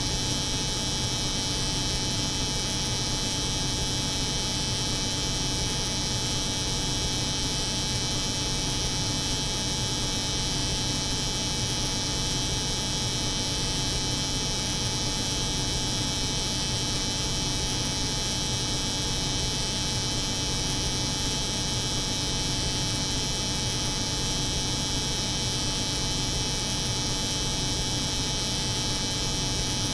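Layered steady drone: an electric hair clipper buzzing over the constant hum of a cold room, unchanging throughout.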